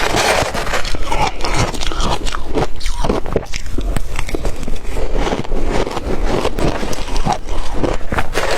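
Close, loud crunching of shaved ice dipped in water, being bitten and chewed in a continuous run of crisp, crackling bites.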